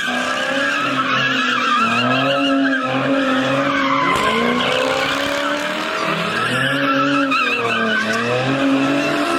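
Car tyres squealing steadily under wheelspin while the engine's revs rise and fall: a car drifting.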